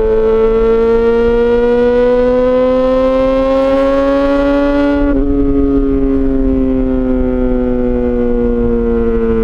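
Yamaha XJ6 S inline-four engine through an SC-Project exhaust, holding a high, steady note under load with the revs climbing slowly. About five seconds in the throttle closes and the pitch eases down slowly as the bike coasts.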